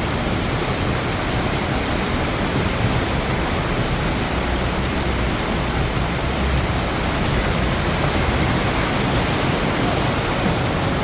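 Heavy rain pouring down with running water, a steady dense hiss.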